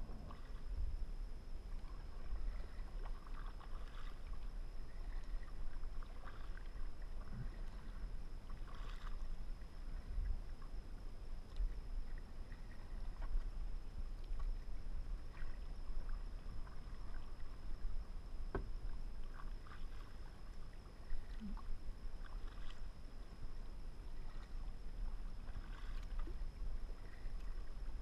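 Kayak being paddled: irregular splashes and drips of water from the paddle blades, over a steady low rumble, with one sharp knock about two-thirds of the way through.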